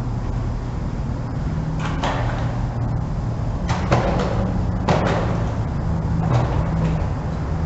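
Four short clunks and scrapes of hand-tool work on an engine, heard over a steady low hum.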